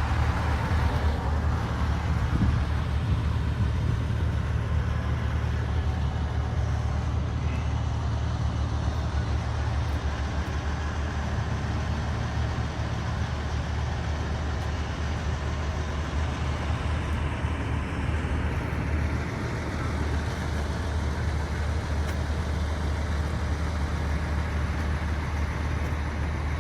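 A car engine idling steadily, a low even hum that holds throughout.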